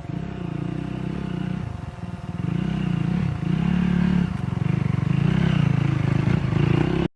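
Rally motorcycle engine under hard throttle, its revs rising and falling repeatedly as it changes gear. It dips about two seconds in and runs louder from about halfway.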